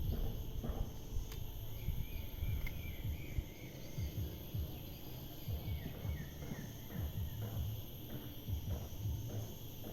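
Outdoor ambience of steady insect drone, with wind buffeting the microphone in gusts and a few short chirps.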